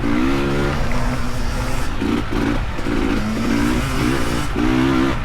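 Dirt bike engines revving, the pitch rising and falling in short throttle blips.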